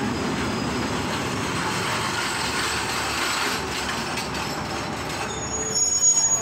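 Diesel passenger train moving along the platform: a steady rumble of wheels on rail, with a few knocks in the middle. A brief high squeal comes near the end.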